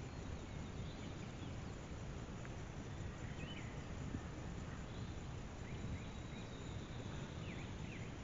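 Faint, scattered chirps of small songbirds over a steady low background rumble.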